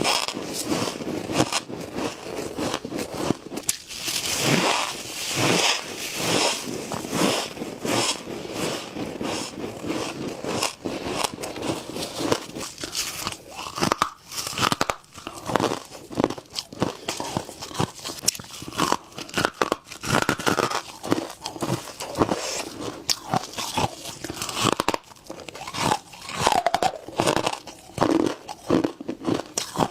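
Humidifier frost being bitten and chewed: a dense, irregular run of crisp crunches.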